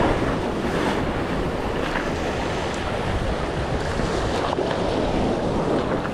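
Wind buffeting the microphone over the steady wash of choppy surf against jetty rocks, with a few faint clicks.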